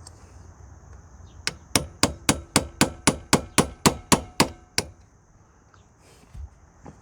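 A hammer striking a punch against the drive chain's master link, about thirteen quick, evenly paced metallic blows over roughly three seconds, each with a short ring. It is an attempt to drive off a link that should slide off but is stuck with rust.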